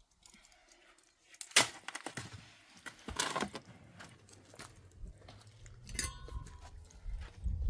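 A few sharp knocks and scrapes of masonry hand work, typical of blocks and a trowel being handled while laying a block wall in cement mortar; the loudest knock comes about one and a half seconds in, with others spread through the rest.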